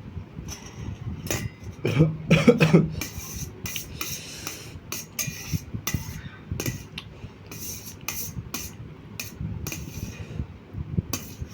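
Eating sounds: cutlery clicking and scraping against a plate, many short taps through the whole stretch. About two seconds in, a brief louder vocal sound from the eater's throat.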